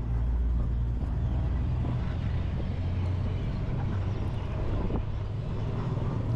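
Road traffic: a motor vehicle's engine running steadily close by, a low even hum over general street noise.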